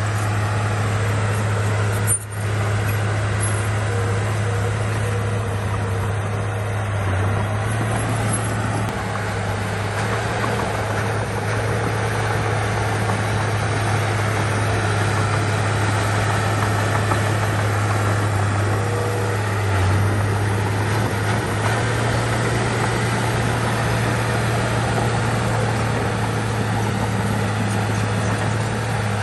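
Diesel engine of heavy earthmoving equipment (bulldozer or dump truck) running steadily with a constant low hum. There is a brief dropout about two seconds in.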